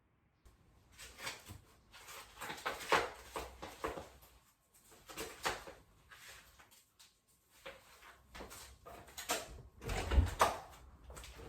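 Irregular knocks, clacks and rustles of household things being handled and put away, with a heavier thud about ten seconds in.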